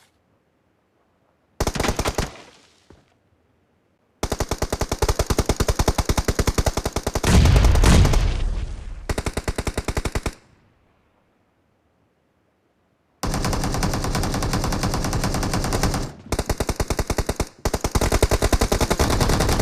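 Video-game automatic gunfire: a short burst, then long runs of rapid fire separated by dead-silent gaps. About seven seconds in, a deeper, louder boom sounds over the shots.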